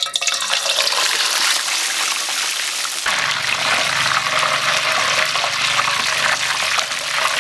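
Steady rush of water, with a low hum joining underneath about three seconds in.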